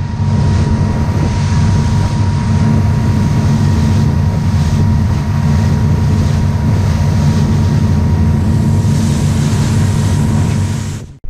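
Loud, steady engine drone with wind rushing over the microphone. It starts and stops abruptly at edits.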